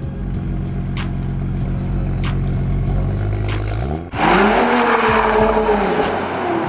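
BMW M235i's turbocharged straight-six with a de-catted downpipe exhaust, idling steadily. About four seconds in comes one sharp rev that rises and falls back.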